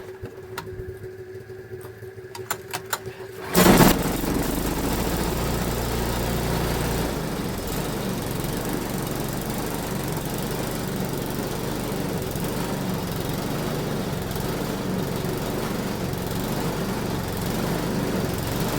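Four-stroke snowblower engine being cold-started: a few faint clicks, then about three and a half seconds in it catches with a sudden loud start and keeps running steadily on choke. Its note shifts slightly about seven seconds in.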